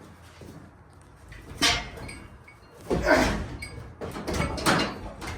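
A few sharp metal clanks and scrapes of tools and parts being pried at in the engine bay, the loudest about three seconds in.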